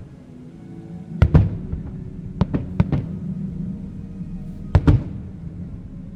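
Fireworks bursting in sharp bangs over steady show music. There are about eight bangs: a pair about a second in, a quick run of four around two and a half to three seconds, and another pair near five seconds.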